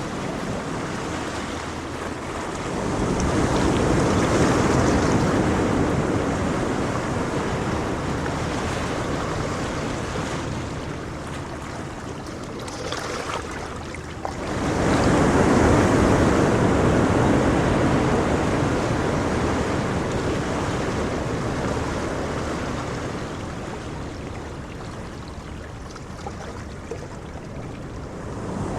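Placid ocean waves washing ashore. Two waves break, one swelling about three seconds in and a second, more sudden one about halfway through, and each washes out and fades slowly.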